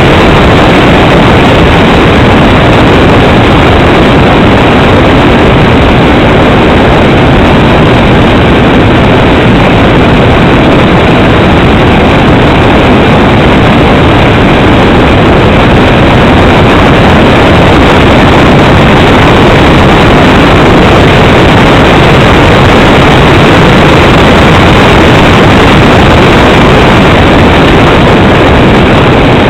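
Steady, very loud aircraft engine and airflow noise picked up on board, unchanging throughout.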